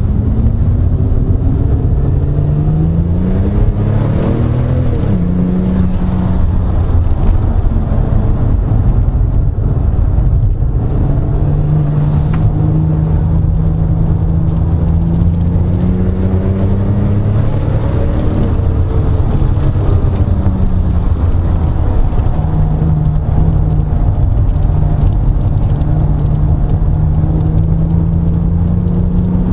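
Porsche 997 Turbo's flat-six engine heard from inside the cabin, pulling hard through the gears on track. Its pitch climbs, steps down at shifts, holds a long rising pull, drops off under a lift, then climbs again near the end, over steady tyre and wind noise.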